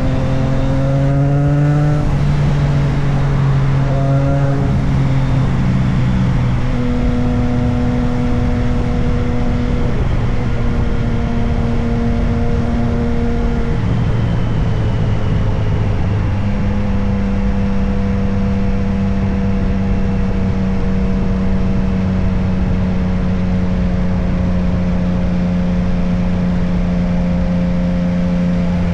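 Motorcycle engine while riding: the revs climb and then drop at several gear changes in the first half, then hold a steady pitch while cruising, under a steady rush of wind noise.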